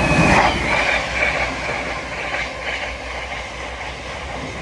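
Class 700 electric multiple unit passing through the station, its rush of wheel and air noise loudest at the start and fading steadily as it moves away, with some faint high ringing tones.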